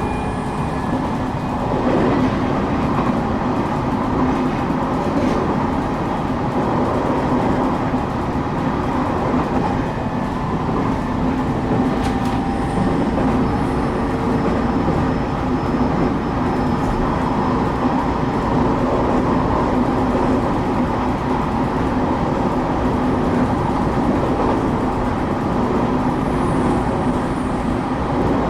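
Inside a moving electric train carriage: the steady rumble of the running train with a low, even hum, and a few faint clicks of the wheels over rail joints.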